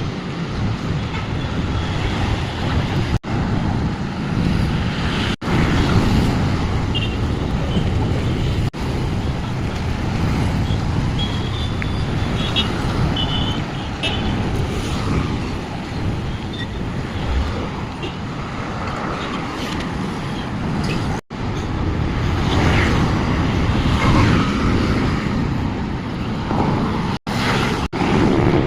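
Road traffic: cars, buses and other motor vehicles running along a busy city road, heard from a moving bicycle, with a strong low rumble throughout. The sound cuts out for a split second several times.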